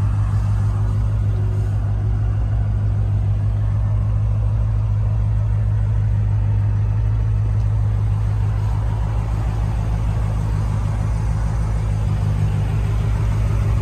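2013 BMW M5's twin-turbo V8 idling steadily, with a deep, even hum.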